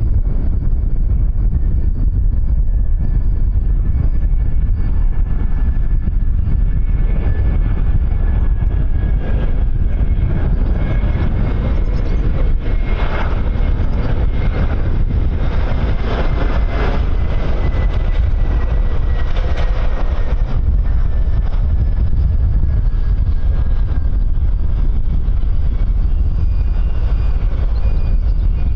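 Jet airliner engines passing, a thin whine slowly falling in pitch with the noise swelling around the middle and then easing, under a heavy low rumble of wind on the microphone.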